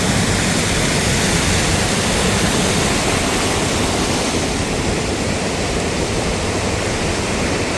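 Loud, steady rush of water falling over rocks, a mountain waterfall.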